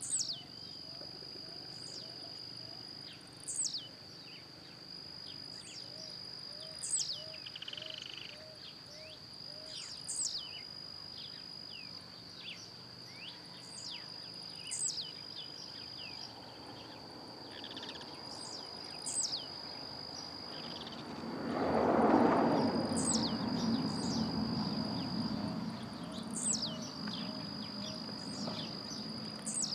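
Blue-black grassquit (tiziu) singing its short, sharp song: a single high note sweeping downward, repeated about every three to four seconds, over a steady high insect drone. A brief rush of noise comes about three-quarters of the way through.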